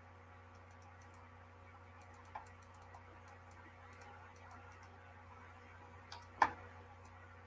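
Faint scattered clicks and taps, with one sharper click about six seconds in, over a steady low electrical hum.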